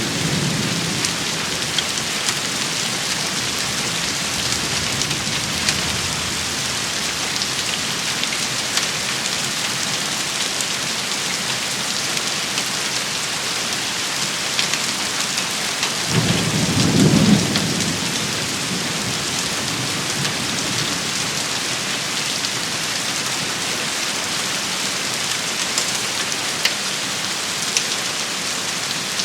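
Steady rain shower pattering down, with scattered sharper drop hits. About halfway through, a brief low rumble swells up and dies away.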